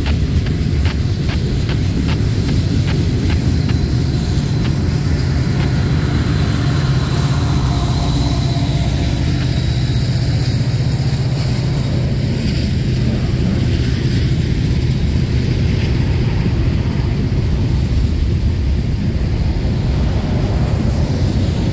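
Freight cars of a manifest train rolling past close by: a steady heavy rumble of steel wheels on rail, with a run of quick, evenly spaced clicks from the wheels over the rail in the first few seconds.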